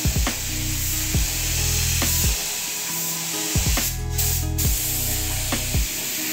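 Hiss of a SATA HVLP spray gun spraying clear coat; the hiss breaks off briefly twice about four seconds in as the trigger is let go. Background music with held bass notes and a steady beat runs under it.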